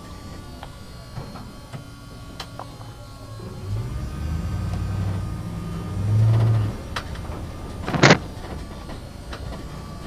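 Backhoe loader's engine running, rising in pitch and level about four seconds in as it works under load and falling back after about seven seconds, with a sharp metallic clank about eight seconds in.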